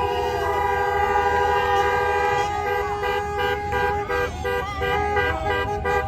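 Several vehicle horns sounding together, first held in one long chord, then from about two and a half seconds in honked in quick repeated blasts, with voices underneath.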